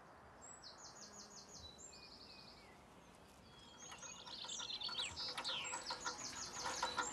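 Garden birds singing: quick, high, repeated trills, several phrases one after another, growing busier and louder about halfway through.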